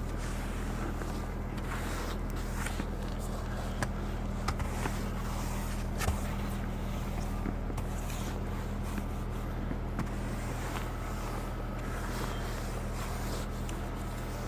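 Car engine idling steadily with a low hum, with a few scattered knocks and scrapes as snow is cleared off the car.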